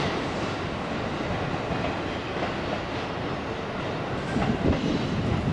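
A 185 series electric train rolling out of the platform, with a few knocks from the wheels in the second half.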